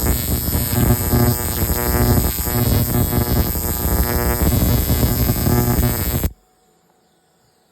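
Electric welder arc buzzing and crackling steadily as a weld is run on the snowmobile's seat brackets, then stopping abruptly about six seconds in.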